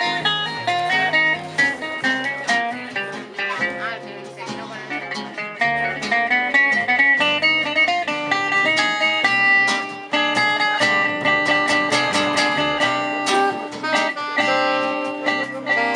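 A gypsy-jazz band playing live: guitars pluck notes in quick succession over a steady accompaniment.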